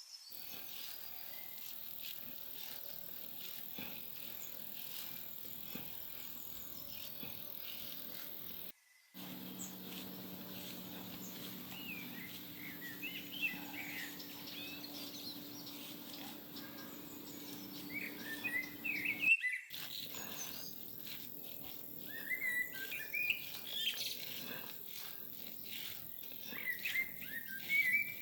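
Birds chirping in short, quick calls over a steady background hiss and low hum. The chirps start about halfway through and come in clusters toward the end.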